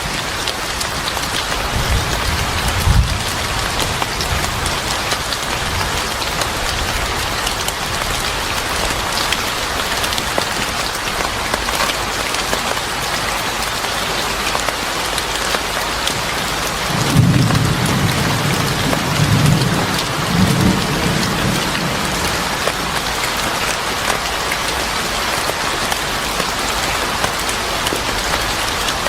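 Steady heavy rain falling on a surface, with low rolls of thunder: a short one about three seconds in and a longer, louder rumble a little past the middle.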